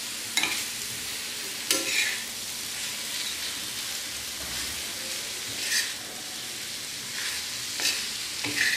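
Onions, potato and dried Bombay duck frying with a steady sizzle on a flat iron tawa, stirred with a metal spatula that scrapes across the pan several times.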